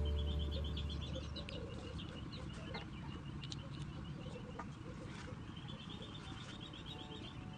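Faint chirping in rapid high trills, repeating every second or so. A low steady hum fades away over the first two seconds.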